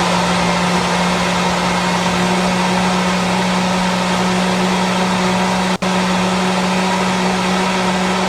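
Ninja blender motor running steadily at high speed with a constant hum, grinding a thick frozen-fruit and date mix. The sound drops out for an instant just before six seconds in, then carries on.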